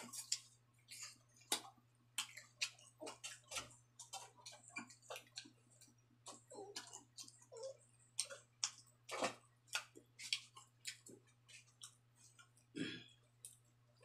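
Close-up eating sounds: faint, irregular wet mouth clicks and lip smacks of someone chewing pork innards, several a second, over a faint steady hum.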